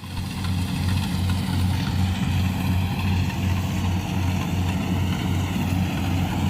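Diesel engine of heavy farm machinery running steadily, with a regular low pulsing about twice a second.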